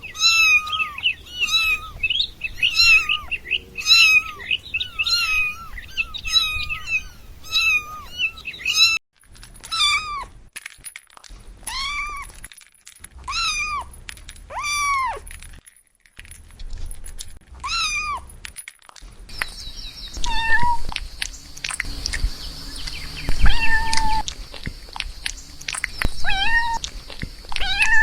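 Kitten meowing over and over in high, thin mews that fall in pitch. The calls come quickly, about one a second, at first, then spaced out every second or two, then fewer and lower over a steady hiss with scattered knocks near the end.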